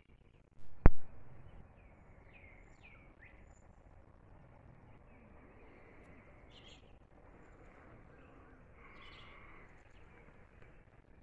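Birds chirping now and then over a faint outdoor background, with a single sharp click about a second in.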